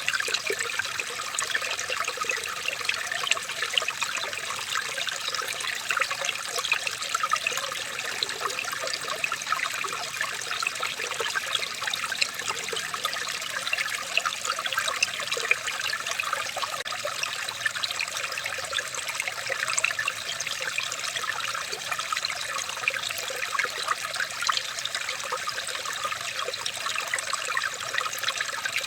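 Small stream of water trickling, a steady busy babble of many tiny splashes and gurgles.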